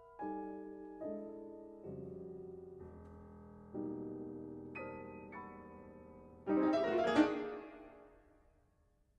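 Solo piano music: slow chords struck about once a second, each ringing and fading. Then a louder, fuller chord near the end dies away.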